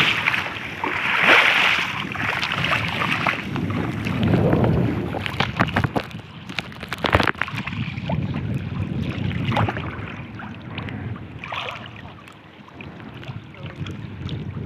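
Strong wind buffeting the microphone over sloshing water, loudest in gusts during the first few seconds, with scattered sharp knocks and clicks from about five seconds in.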